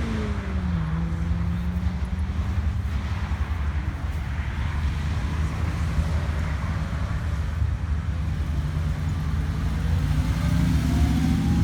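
Car engine running with a heavy low rumble. It drops back from a rev in the first second, holds a steady speed, then revs up again steadily over the last few seconds.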